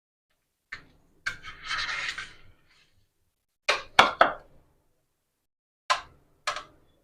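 A knife cutting through a baked pizza's crust: a scraping rasp for about a second, then several sharp knocks of the blade on the surface beneath, three close together in the middle and two more near the end.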